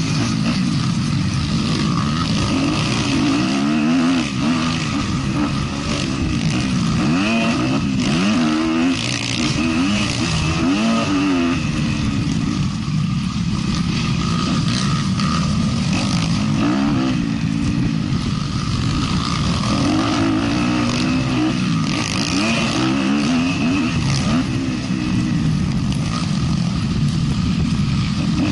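Motocross bike engine running hard and revving up and down over and over as it is ridden around the track, its pitch rising and falling every second or two.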